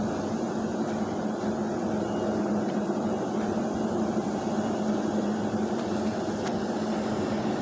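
Steady machine hum with a constant low tone.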